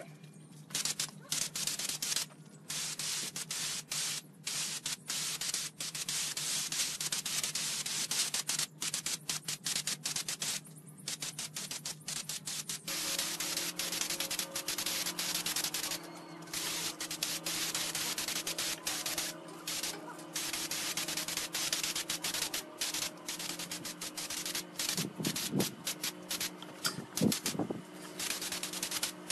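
Compressed air hissing in repeated on-off bursts, over a steady low machine hum that shifts up in pitch about halfway through.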